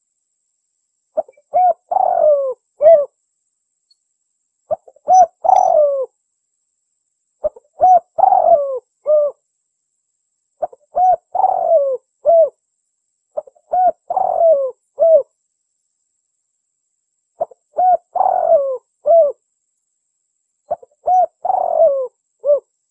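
Spotted dove (tekukur) cooing: seven phrases of a short note, a longer swelling coo and a short closing note, repeated about every three seconds with silence between. This is a champion contest bird's call, played as a lure to draw other spotted doves to the sound.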